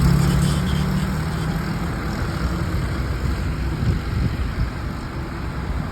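Motorcycle engine running, with its engine note strongest in the first second or so and then giving way to a steady, noisier drone.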